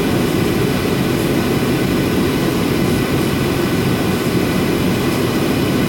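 Boeing 737-800's CFM56 jet engines running steadily, a loud even rumble with a faint hum of tones above it.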